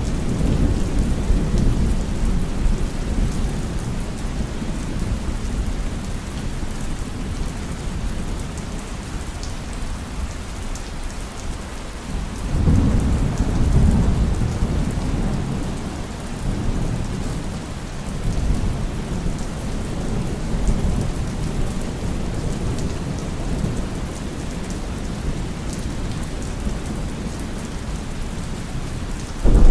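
Heavy rain falling steadily during a thunderstorm, with low rolling thunder rumbles, the strongest about twelve seconds in, and a loud clap of thunder breaking right at the end.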